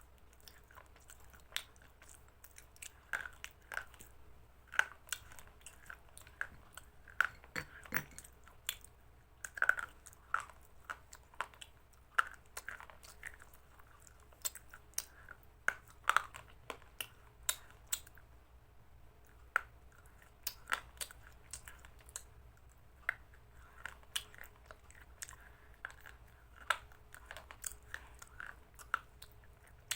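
A person chewing and crunching a mouthful of chicken salad close to the microphone, with irregular crisp crunches a few times a second.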